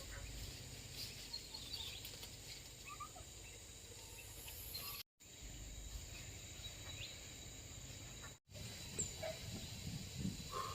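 Faint rural outdoor ambience: a steady high insect drone with scattered short bird chirps and soft rustling, cut off twice by brief gaps of silence.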